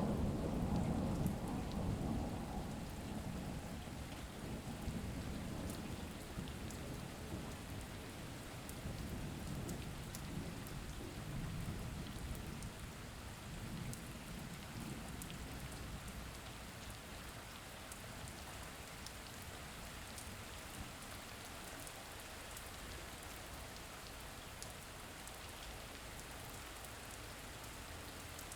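Steady rain with a low roll of thunder that dies away over the first several seconds, leaving the even hiss of rain with light scattered drop ticks.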